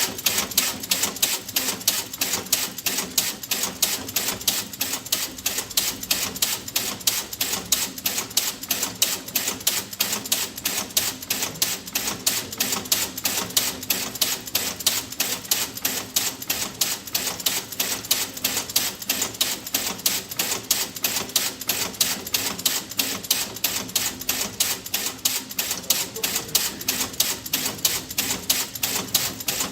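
Rapid, steady mechanical clicking, about five sharp clicks a second, starting suddenly and keeping an even pace.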